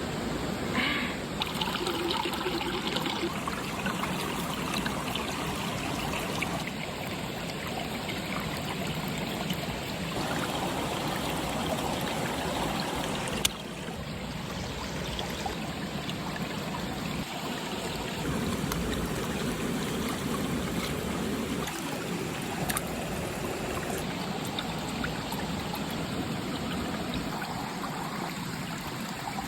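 Water trickling and running steadily, with one brief sharp click about halfway through.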